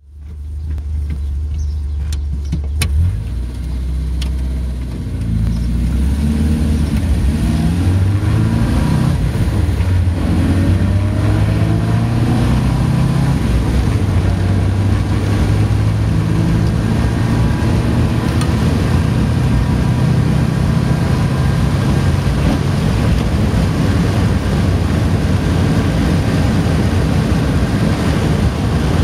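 Morris Minor's Marina 1300 four-cylinder engine heard from inside the cabin, pulling hard on a hill climb, its note shifting with gear changes in the first few seconds and then running loud and steady under load, with road and wind noise. A few sharp clicks come about two to three seconds in.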